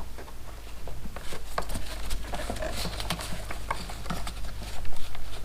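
Irregular small clicks and taps of hands working a plastic wiring connector on a motorcycle frame, trying to find where it releases, over a low steady hum.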